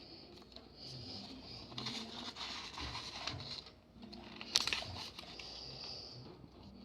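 Faint rustling handling noise, like paper being moved about, with one sharp tap about four and a half seconds in.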